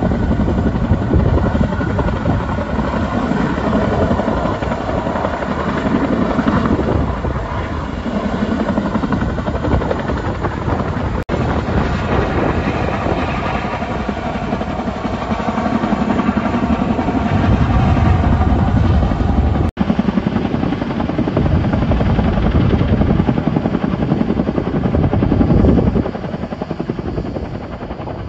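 Helicopter rotor and engine noise, loud and continuous, broken by two abrupt cuts in the sound.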